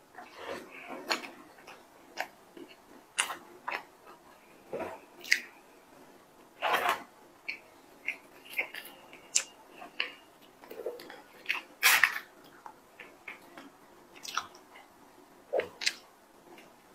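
A person biting into and chewing a chocolate sandwich cookie close to the microphone: irregular mouth clicks and bites, the loudest about seven and twelve seconds in.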